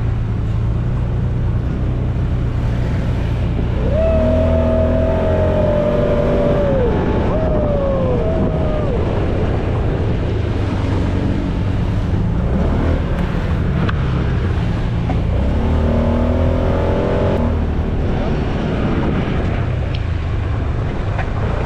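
UTV (side-by-side) engine running steadily as the vehicle drives, with a low drone and a rushing noise of movement. Twice, about four seconds in and again near the end, a higher whine comes in, holds, then falls away.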